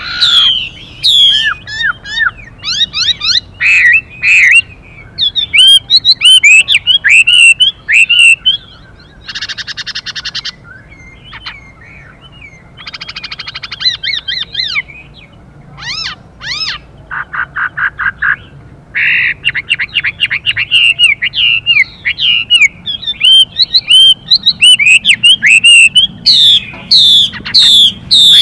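Chinese hwamei singing a fast run of loud, varied whistled phrases that swoop up and down in pitch. Three harsh, buzzy calls of about a second each come in the middle: the female hwamei's hissing 'xùy' calls.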